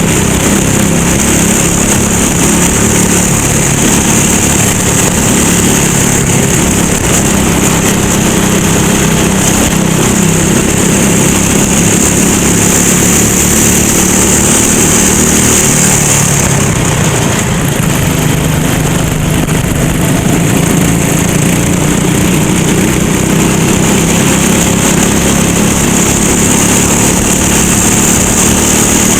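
Kart engine running hard under racing load, its note rising and falling with the throttle, with a dip in pitch about two-thirds of the way through.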